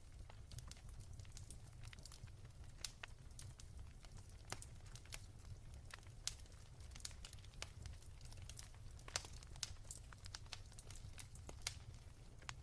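Wood fire crackling softly: faint, irregular sharp pops and snaps over a low steady rumble.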